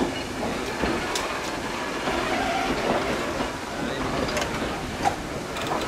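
Steam-hauled passenger train rolling slowly on its carriages: a steady rumble of wheels on rail with occasional sharp clicks, heard from on board.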